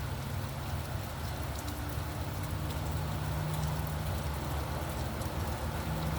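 Steady rain falling, with scattered drop ticks, over passing road traffic; a vehicle's low engine hum builds through the second half.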